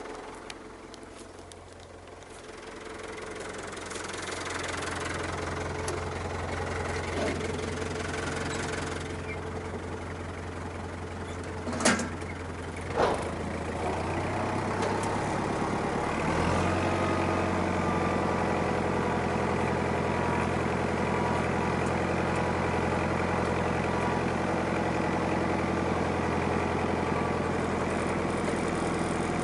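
Tractor diesel engine running steadily, with two sharp knocks about a second apart near the middle; the engine grows louder and its note shifts a little past halfway.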